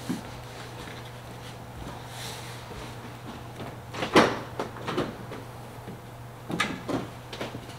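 A few knocks and clunks like a door or lid shutting, the loudest about four seconds in, with smaller ones around five and near seven seconds, over a steady low hum.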